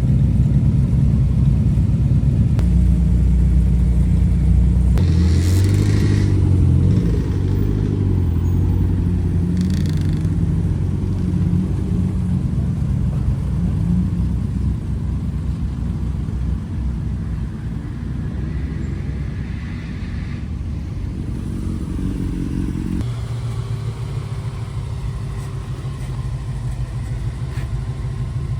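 Deep, steady rumble of car engines running at low revs, changing as one car gives way to the next, once early and again late on.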